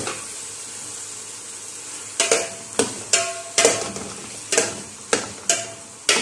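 Shrimp sizzling in hot oil with onions and tomatoes in an aluminium pot. From about two seconds in, a spoon stirs them, clinking against the pot about twice a second with a short ringing clank each time.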